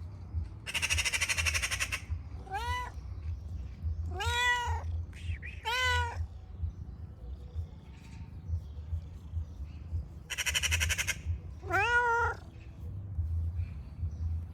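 Domestic cat meowing four times, each meow rising then falling in pitch. Two short bursts of hissing noise come about a second in and again about ten seconds in, over a steady low rumble.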